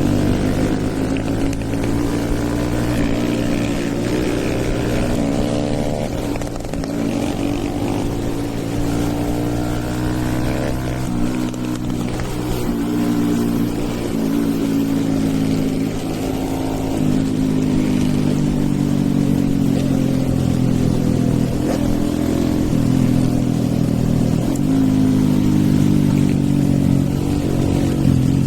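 Stage-2-tuned Hero Eco 150's single-cylinder engine under way, its note rising and falling several times as it accelerates and eases off through the gears.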